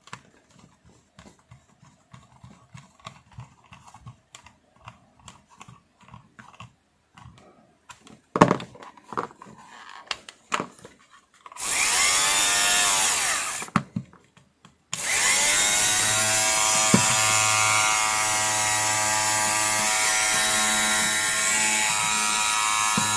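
Faint clicks of a screw being driven into a small plastic housing, then the repaired electric lint remover's small motor is switched on, spins up with a rising whine, runs about two seconds and stops. It is switched on again and runs steadily: the shaver now powers on after its no-power fault was fixed.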